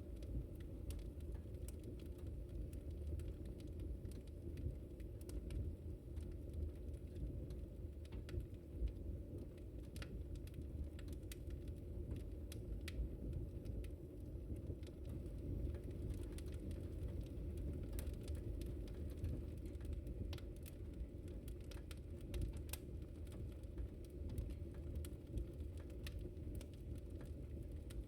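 Wood fire burning with a steady low rumble and frequent, irregular crackles and pops.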